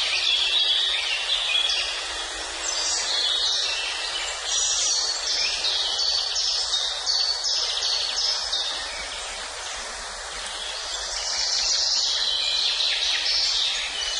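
Several songbirds singing at once: dense, overlapping high chirps and trills, with a quick run of repeated falling notes midway, over a steady background hiss.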